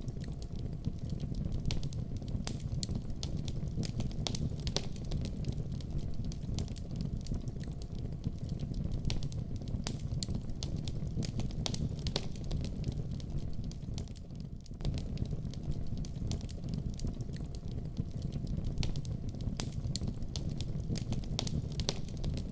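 Wood fire burning in a fireplace: a steady low rumble of flames with frequent irregular sharp crackles and pops, briefly dipping a little over halfway through.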